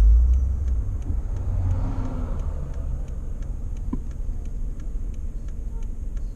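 Car driving with a steady low rumble, loudest in the first second. A faint ticking runs at about three times a second, with a few faint short squeaks.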